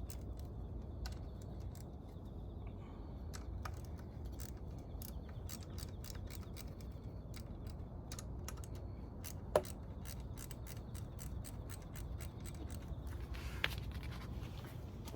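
Hand tools and metal parts clicking and tapping lightly during engine disassembly, with one sharper knock about halfway through, over a low steady hum.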